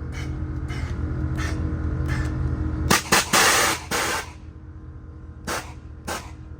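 A Cadillac's engine idling while its air suspension lets off short hisses of air, with one long, loud hiss about three seconds in. The engine's low hum drops after the long hiss.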